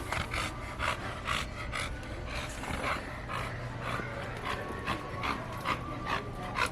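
American bully dog panting in quick, regular breaths, about two to three a second.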